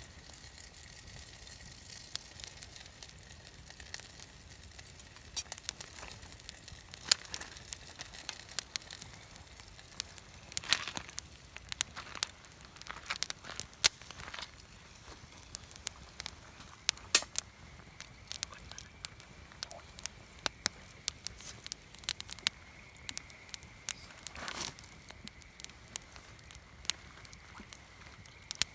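Wood campfire burning, crackling with irregular sharp pops and snaps, some much louder than others.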